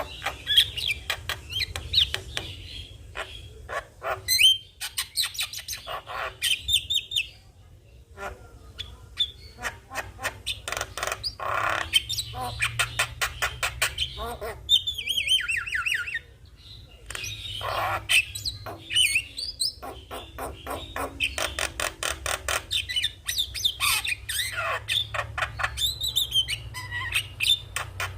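Javan myna singing a long, varied song of rapid clicks, harsh squawks and gliding whistled notes, breaking off briefly about 8 seconds and 16 seconds in. A steady low hum runs underneath.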